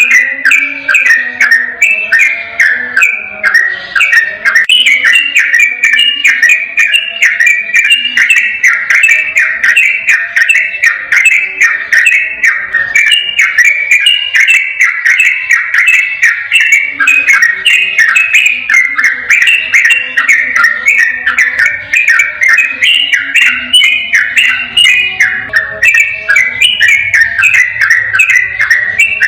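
Sooty-headed bulbul (trucukan) singing a long, unbroken 'ropel' song: short whistled notes in a rapid, continuous run, several a second, with no pauses.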